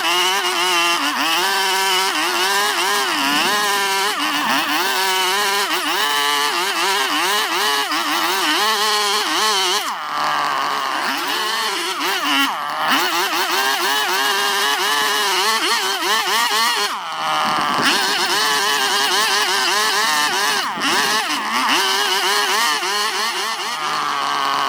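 Chainsaw engine running hard while carving toon wood, its pitch dipping and rising again and again as the chain bogs in the cut and frees up.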